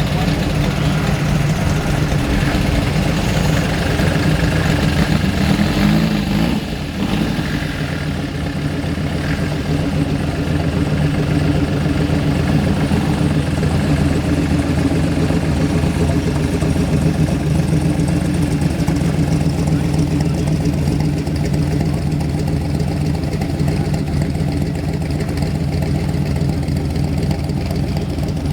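A vehicle engine idling steadily, with a brief dip in level about seven seconds in.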